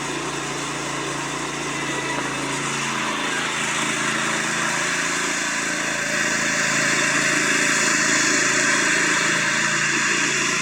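Riding lawn mower's small engine running steadily. Its sound shifts about three seconds in and then grows gradually louder.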